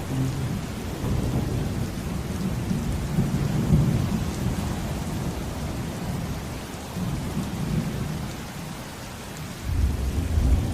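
Steady heavy rain with thunder rumbling and rolling underneath, and a deeper swell of rumble near the end.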